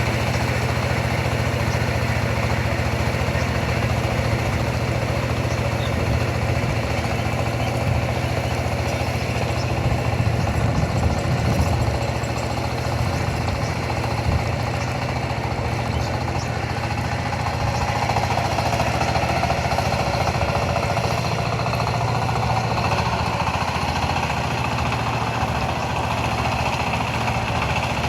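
Engine of a ploughing machine running steadily in a field, a continuous rapid beat that swells a little partway through.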